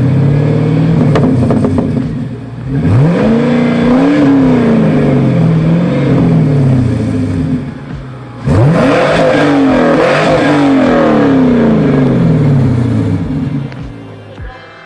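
A high-performance car engine running and revving hard twice: the pitch climbs steeply about three seconds in and again about eight and a half seconds in, then falls away in steps each time. The sound fades near the end.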